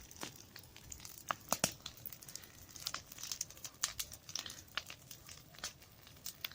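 Bonfire of dry corn stalks and leaves crackling, with irregular sharp pops several times a second.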